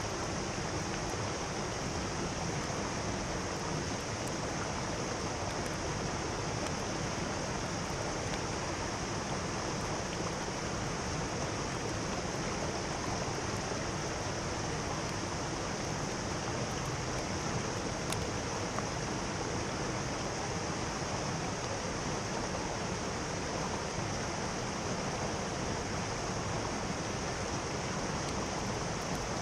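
Mountain stream rushing steadily over rocks, an even unbroken sound of water.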